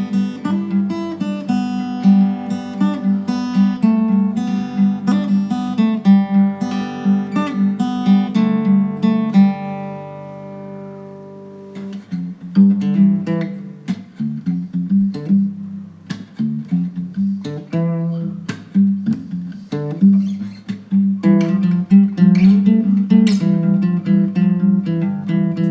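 Acoustic guitar music: quick plucked notes that stop for a held chord ringing out about ten seconds in, then the picking starts again and builds.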